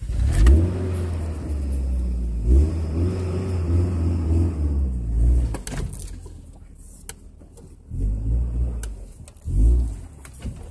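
Off-road vehicle's engine revving in bursts while crawling over a rock: one long pull of about five seconds, then two shorter surges near the end. A few sharp knocks come in between.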